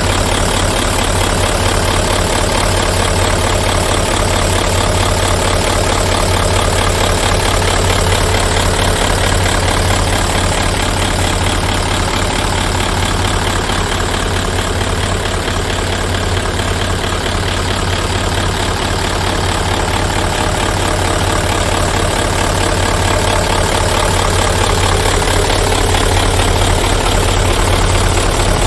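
Hino Super Dolphin's F20C 20-litre V8 diesel engine idling steadily, with an even, rapid low pulsing.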